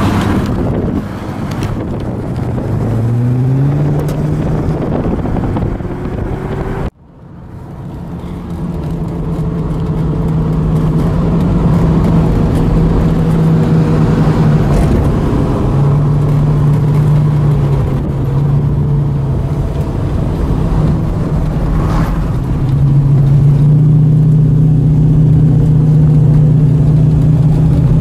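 A Holden Torana's engine heard from inside the cabin, rising in pitch as it accelerates, then pulling steadily up a winding hill road with a few changes in pitch. The sound drops out for an instant about seven seconds in.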